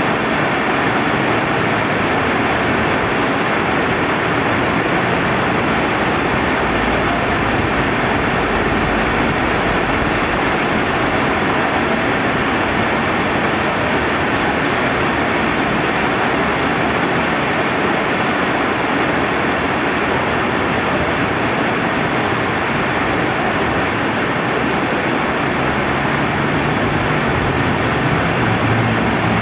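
Steady rain falling beside a flowing river: an even, unbroken rushing hiss.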